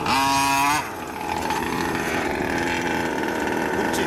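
Small two-stroke gas engine of a Losi 5T radio-controlled truck, blipped hard for under a second, its pitch rising just before it drops back. It then runs on steadily at a lower, quieter level, with a single click near the end.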